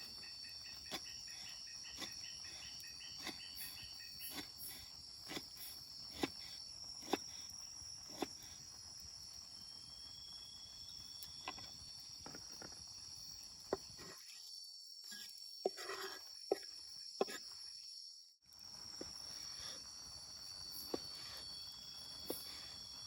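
Forest insects such as crickets keep up a steady, high-pitched drone, with scattered sharp clicks and knocks over it. The background drops away for a few seconds about three-quarters of the way through.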